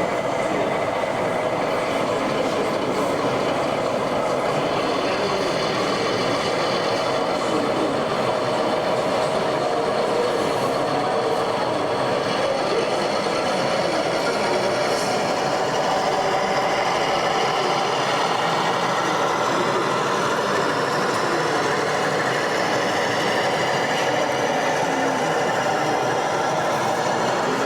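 Steady hubbub of many people talking at once in a busy exhibition hall, with no single voice standing out.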